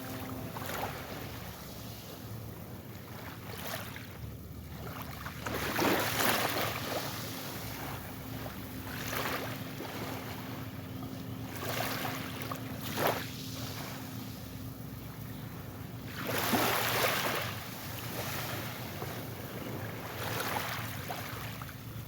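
Ocean waves washing in every few seconds over a steady sea hiss, with wind on the microphone and a faint steady low hum underneath.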